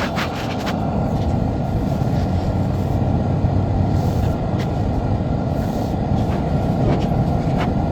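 Engine of a snow-clearing machine running steadily with a low rumble, with a few faint clicks and knocks.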